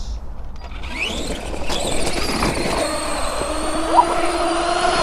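Electric motor of a radio-controlled car whining as it drives. Its pitch rises about a second in, then holds fairly steady.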